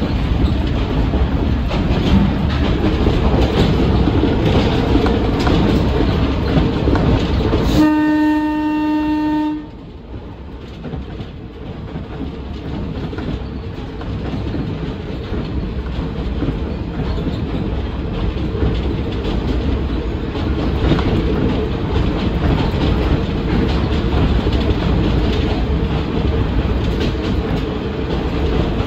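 Kominato Railway diesel railcar running along the line, with rail-joint clickety-clack. About eight seconds in it gives one steady horn blast lasting about a second and a half. Right after the horn the running noise drops sharply, then gradually builds back up.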